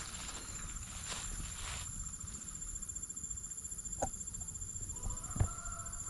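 Rural outdoor ambience: insects trilling steadily at a high pitch over a low rumble, with two sharp knocks about four and five seconds in and a short bird-like call near the end.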